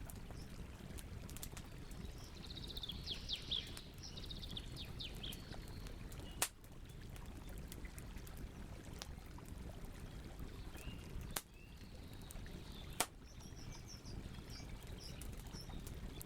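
Campfire crackling over a steady low noise, with three sharp loud pops from the burning wood. A bird sings a quick run of falling notes a few seconds in, and a bird chirps softly near the end.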